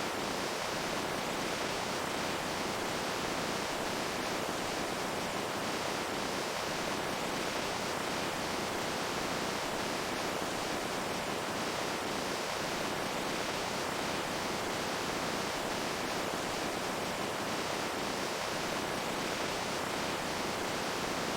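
Flowing water rushing steadily, an even hiss that never changes in level.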